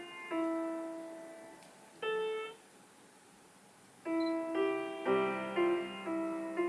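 Piano playing slow, sustained notes with no voice: a few notes in the first couple of seconds, a pause of about a second and a half, then a run of notes and chords near the end.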